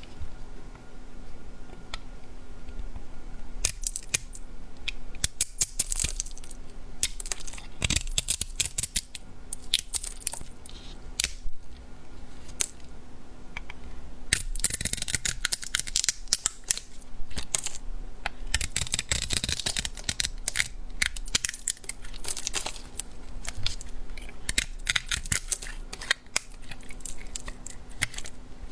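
A blade cutting through bar soap, with bouts of dense, crisp crackling and snapping as the soap splits and crumbles, separated by short quieter gaps.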